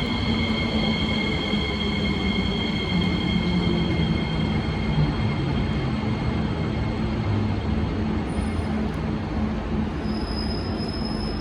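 SMRT C151B metro train pulling in and slowing: steady wheel and running noise, with high steady squealing tones that fade out within the first few seconds and a low hum that drops in pitch as it slows.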